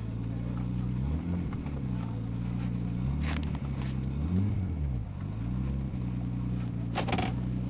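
Nissan Cefiro A31's straight-six engine idling steadily, with two short throttle blips, about a second in and again at about four and a half seconds. A couple of short clicks are heard, around three seconds in and near the end.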